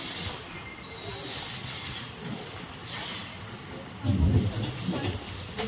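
A train running on the rails with a thin, steady high-pitched wheel squeal over its noise; a louder low rumble comes in about four seconds in.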